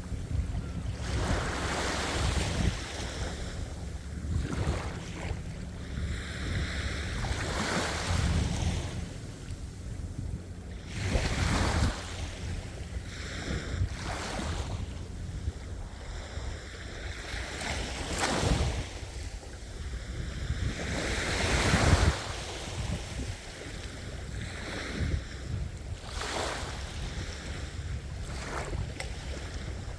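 Ocean waves breaking and washing up the shore, the rushing hiss swelling and fading every few seconds, over a steady low rumble of surf and wind on the microphone.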